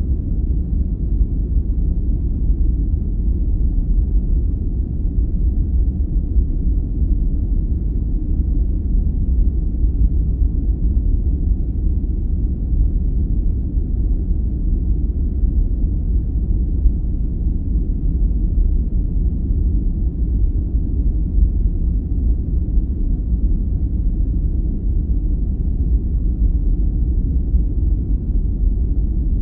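Continuous sleep-aid noise: a steady, deep rumbling hiss with almost no high end and no change.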